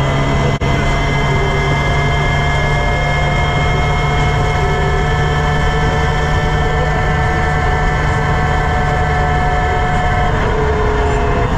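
Campagna T-Rex's motorcycle engine running at a steady cruise, mixed with wind rushing through the open cockpit. Its note drops a little near the end.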